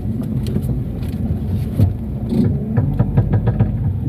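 Chevrolet Cobalt with a worn CV joint being driven slowly, engine running, with irregular light clicks and knocks over the low rumble.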